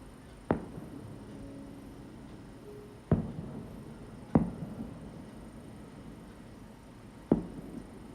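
Four booms of aerial fireworks shells bursting, each a sharp bang with a short rumbling echo. Two come close together near the middle, and the last comes near the end.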